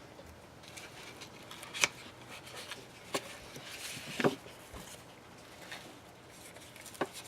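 Hand-handling sounds of paper and duct tape being wrapped around a stick: a few soft taps and a faint rustle.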